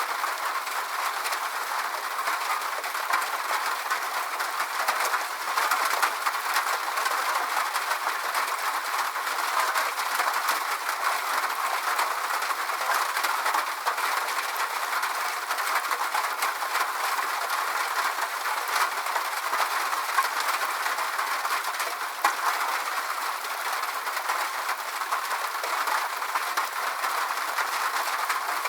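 Steady rain, an even hiss of many small drops.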